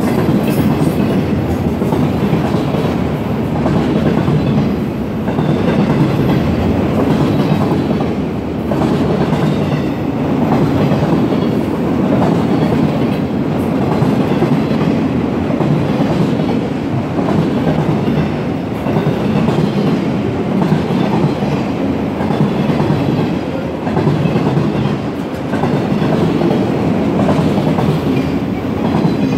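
Freight train of autorack cars rolling past close by: a steady loud rumble of steel wheels on rail with clickety-clack over the rail joints, swelling and easing as each car goes by. Near the end the noise drops away as the last car passes.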